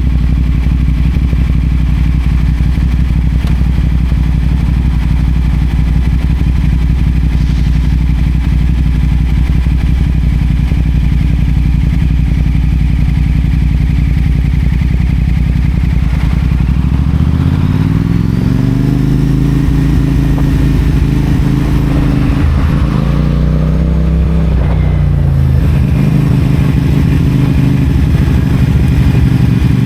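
CFMoto 450SR parallel-twin engine breathing through a Yoshimura AT2 slip-on exhaust: it idles steadily for over half the time, then the revs rise as the bike pulls away about 17 seconds in. The pitch dips briefly and climbs again near the 24-second mark, as at a gear change, before settling into a steady cruise.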